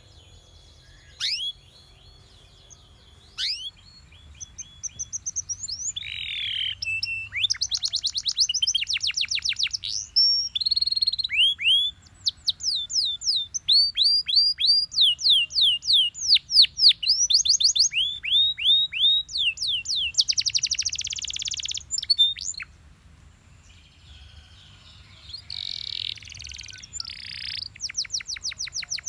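Canary singing: fast trills of repeated high down-sweeping notes, run together with rolls and some buzzy, harsher phrases. It starts with a few isolated notes before the song gets going, then pauses briefly about three-quarters through before resuming.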